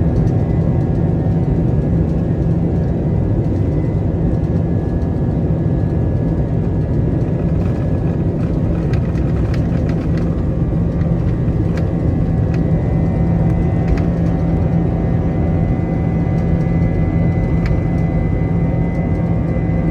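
Inside an Airbus A321 cabin, the twin IAE V2500 turbofan engines run at takeoff power: a loud, steady rumble with a high whine that grows stronger about halfway through. A few light knocks and rattles come in the middle and near the end.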